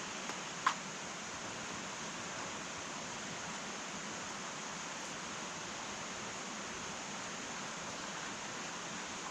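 Wood fire burning in an irori sunken hearth: a steady soft hiss with one sharp crackle under a second in and a couple of faint pops.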